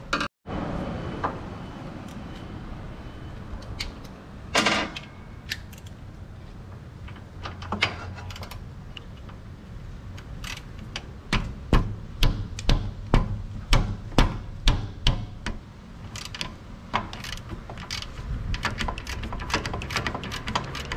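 Metal hand-tool work: scattered clicks and knocks, with a run of about eight sharp knocks, roughly two a second, in the middle.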